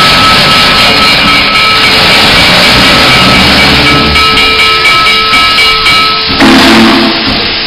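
Steam locomotive whistle blowing loud, steady chords of several pitches at once, sounding twice. Near the end a loud rush of escaping steam follows.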